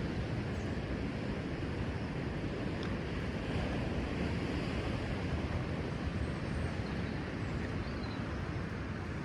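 Rough sea surf breaking below the cliffs, a steady wash of noise, with wind buffeting the microphone.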